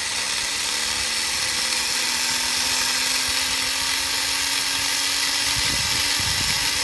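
Tiny electric motor and propeller of an Air Hogs E-Charger micro plane running with a steady high-pitched whir, its pitch creeping slightly upward. Low rumbles come in near the end.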